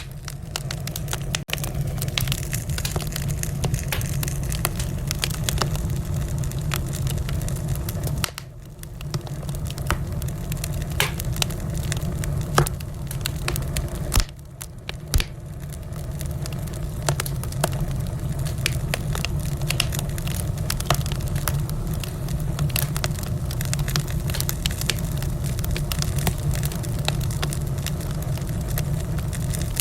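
Wood fire burning in a fireplace: a steady low roar of flame with dense, irregular crackles and sharp pops of burning logs. The sound briefly drops away twice, about eight and fourteen seconds in.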